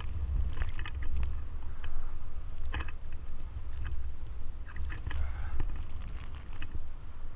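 Footsteps crunching in snow, irregular short crunches about every half second to a second, over a steady low rumble of wind buffeting the microphone.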